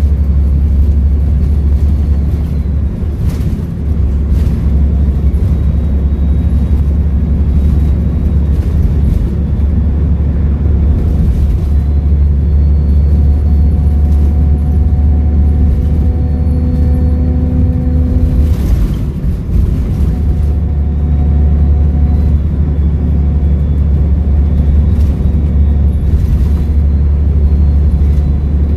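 Volvo B7RLE bus diesel engine running under way: a heavy, steady rumble with a faint high turbo whistle that rises and falls, and a mid-pitched whine near the middle. A few short knocks come through, one about three seconds in and one a little past halfway.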